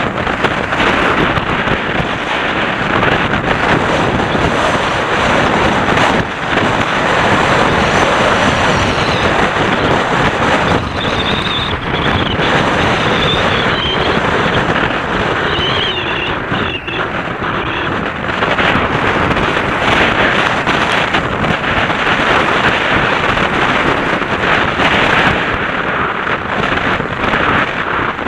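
Wind buffeting the camera microphone over the continuous rattle and rumble of a downhill mountain bike riding over rough, rocky trail, with many short knocks throughout. A faint high squeal comes and goes midway through.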